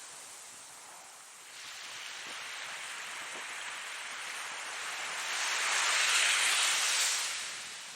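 Ocean surf washing in: a steady hiss that builds as a wave breaks, is loudest about six to seven seconds in, then falls away near the end.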